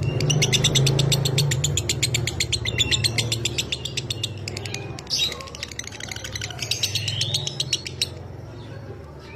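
Lovebird's long rapid chattering trill (ngekek), a fast run of short buzzy notes for about five seconds, a brief squeak, then a second run that stops about eight seconds in.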